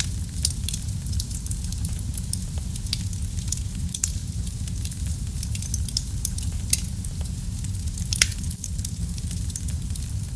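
Wood fire burning in a fireplace: a steady low rumble of flames with frequent sharp crackles and pops, a louder cluster of pops about eight seconds in.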